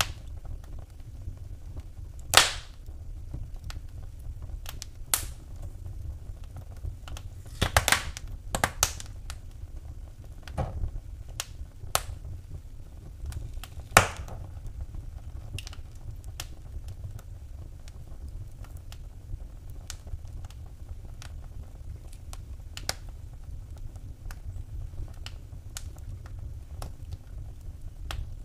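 Wood fire in a fireplace crackling: a low steady rumble with scattered sharp pops, a few loud ones in the first half and fainter, sparser ones later.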